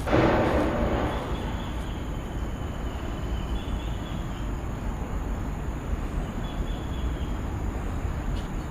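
Steady low outdoor rumble, with a louder rush of noise in the first second.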